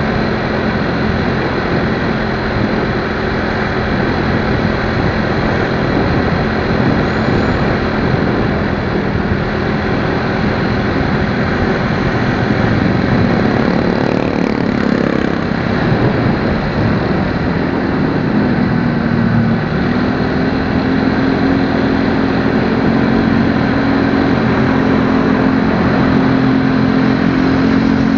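Motorcycle on the move in traffic: a steady engine under loud road and wind noise, the engine pitch dipping and rising around the middle, then holding higher.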